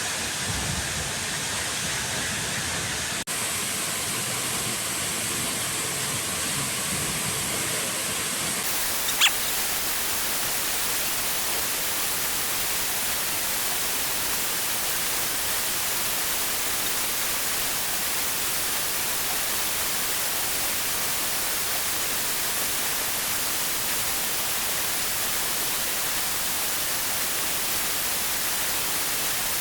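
Heavy rain falling steadily, an even rushing hiss. It turns brighter about nine seconds in, with one short sharp tick.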